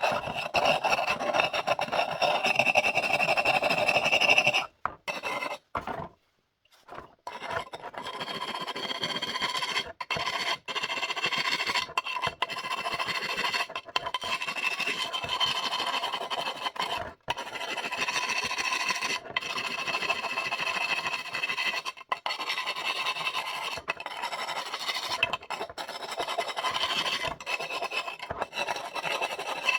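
Hand abrasive scraping back and forth over the rough, unglazed surface of a wood-fired ceramic pot as it is ground smooth. There is a pause of about two seconds around five seconds in, then the stroking resumes with short breaks.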